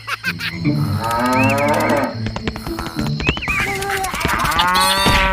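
Cow mooing in long, drawn-out calls, one about a second in and another from about three seconds in, over background music with clicking sounds.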